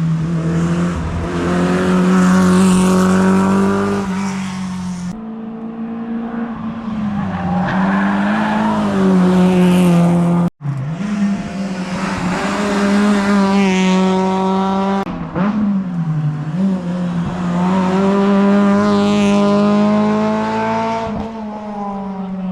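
Rally cars driven flat out on a tarmac hillclimb stage, engines revving hard, the pitch dipping and climbing at gear changes and lifts. Several passes are joined by cuts about five and ten and a half seconds in.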